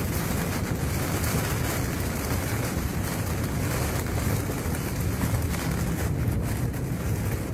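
Steady noise of heavy rain on a moving car and its tyres on the wet road, heard from inside the cabin.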